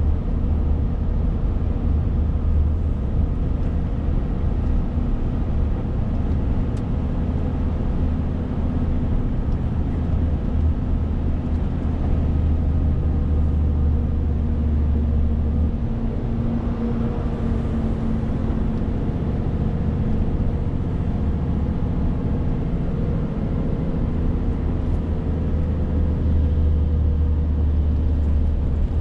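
Renault T520 truck's six-cylinder diesel engine running steadily on the road, a continuous drone with tyre and road noise. The deep low hum drops away a little past the middle and comes back near the end, as the engine's load changes.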